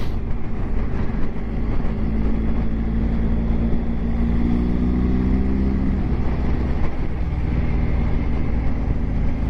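Motorcycle engine running on the road under a steady low rumble of wind. About two seconds in, the engine note climbs for a few seconds as the bike accelerates, then drops back around six seconds in.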